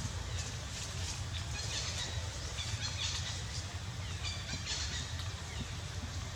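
Short, high chirping animal calls in several quick clusters over a steady low rumble.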